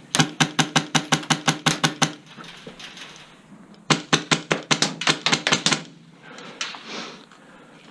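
Airsoft gun firing two quick strings of shots, about seven a second: one for about two seconds, then another starting about four seconds in, followed by a few single shots.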